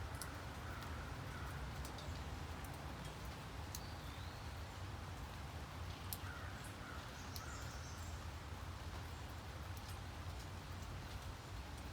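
Steady rain, with scattered sharp drip ticks over a low steady rumble. Faint bird calls come in a few times.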